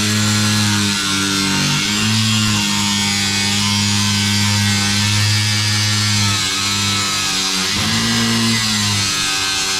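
Angle grinder with a diamond blade cutting through porcelain tile, a steady motor whine over a harsh grinding hiss. The motor note sags and recovers around two seconds in and again near the end as the blade bites into the tile.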